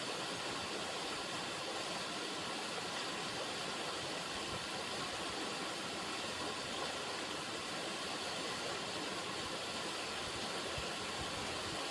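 River water running, a steady, even rushing hiss that holds without a break.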